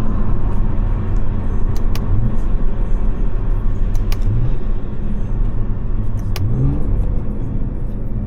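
Stage 2 tuned BMW 540i's turbocharged B58 straight-six accelerating through the gears. A sharp crack comes at each upshift, three times about two seconds apart, and the engine pitch climbs again after each one.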